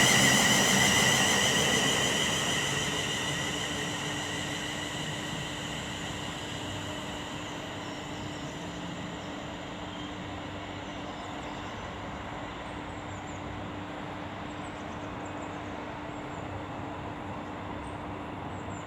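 A train running and fading away into the distance. A high whine dies out about two seconds in and the sound falls off over the first few seconds, leaving steady, quieter railway ambience with a low hum.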